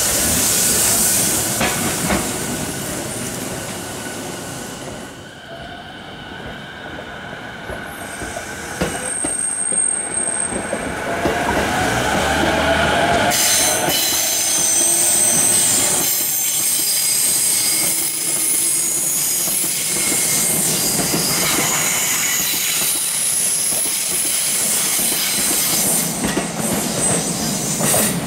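Electric commuter trains running on the line. First a fading motor whine, then a JR East E233 series 7000 train passes on a curve with a steady rumble of wheels on rail and high wheel squeal from the curve.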